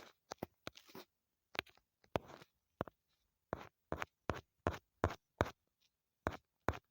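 A run of irregular sharp clicks or taps, roughly three a second with short gaps between them.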